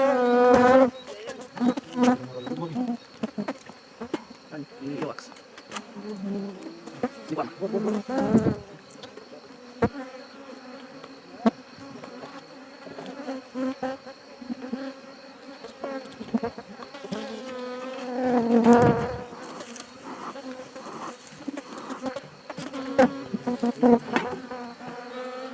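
Honey bees buzzing in flight, a steady hum with louder swells as bees pass close, once at the start and again about two-thirds of the way through. Small clicks are scattered through it.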